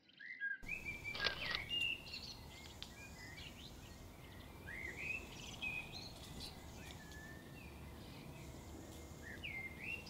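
Wild birds chirping and whistling in short scattered calls over a steady outdoor background hiss, with one louder brief call about a second in.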